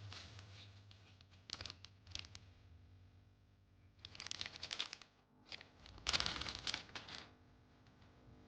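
Intermittent rustling and crinkling of something being handled, in several short bursts with the loudest about six seconds in.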